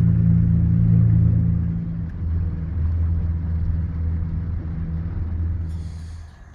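Boat motor running steadily with a low hum; its pitch shifts a little about two seconds in, and it fades away near the end.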